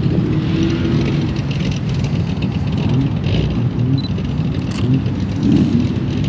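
A car engine running steadily close by, a continuous low rumble.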